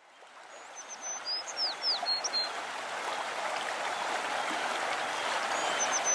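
Bird calls, quick chirps and downward-sliding whistles, over a steady rushing hiss that fades in from silence. The same short phrase of calls comes twice, about five seconds apart.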